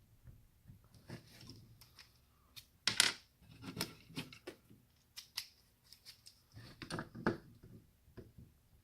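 A small screwdriver clicking and scraping against tiny screws and the casing of an electronic unit being taken apart, with irregular taps and handling noises. The loudest click comes about three seconds in.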